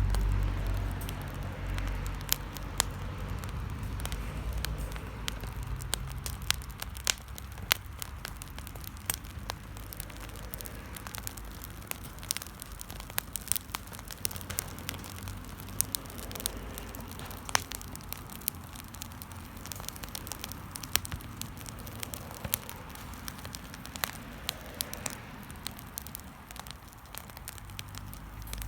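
Wood bonfire crackling, with irregular sharp pops and snaps throughout. A low rumble fades out over the first few seconds.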